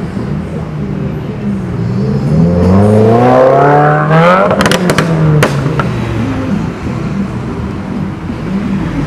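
A car engine revving hard as the car accelerates past, its pitch climbing for about a second and a half, with a few sharp cracks near the peak before the pitch drops away.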